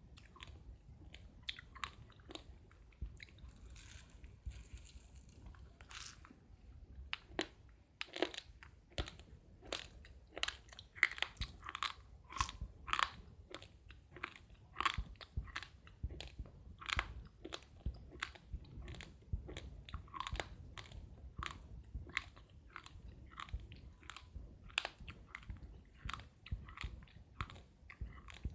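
Raw, uncooked rice grains being chewed: a steady run of sharp, brittle crunches, two or three a second.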